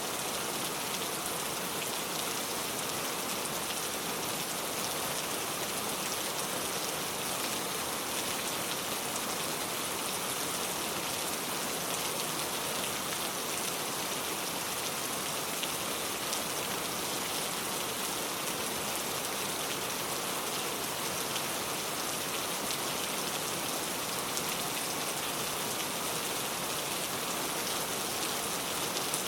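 Steady rain falling: an even, unbroken hiss with fine patter of drops.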